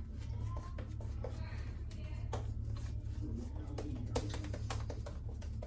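Stainless double-edge safety razor skimming over wet skin: short, light scratchy clicks of the blade on stubble, here and there, over a steady low hum.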